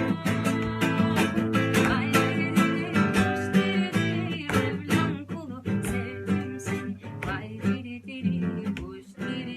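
Music: an acoustic guitar strummed in a steady rhythm, accompanying a Turkish folk song.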